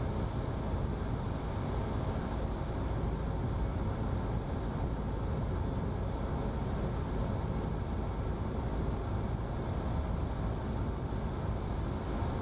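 Cessna single-engine piston airplane's engine at reduced approach power on final, a steady drone mixed with airflow noise.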